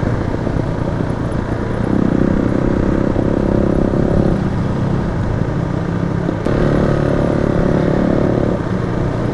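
Motorcycle engine running while riding, over a constant low wind rumble on the microphone; the engine note comes up stronger twice, about two seconds in and again about six and a half seconds in.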